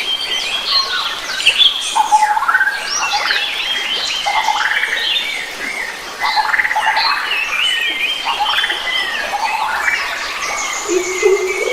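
Dense chorus of many forest birds singing and calling at once, with overlapping whistled and chirping phrases that rise and fall. Near the end a lower, steadier call joins in.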